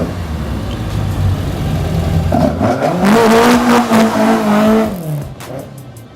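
Car engine with a low rumble that rises in pitch about two and a half seconds in, holds a high, loud note for nearly two seconds, then drops away and fades.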